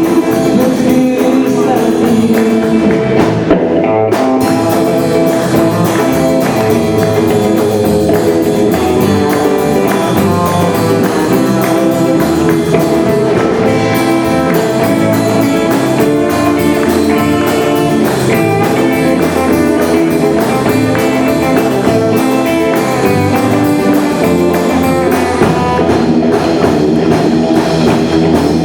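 A live band performing a song, the music playing steadily throughout.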